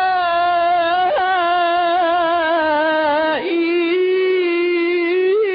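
A Quran reciter's voice holding one long melodic note with a wavering vibrato in tajweed style, sliding down in pitch about three and a half seconds in and then held again.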